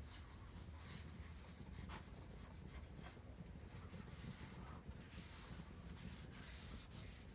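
Faint, irregular crackling and ticking of a wood fire burning, over a low murmur.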